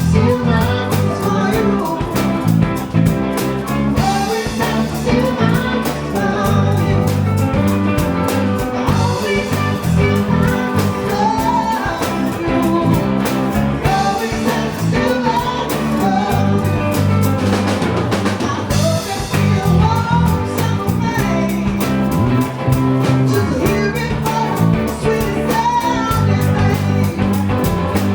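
A band playing a blues-rock song: a singer over guitar, bass and drum kit with a steady beat.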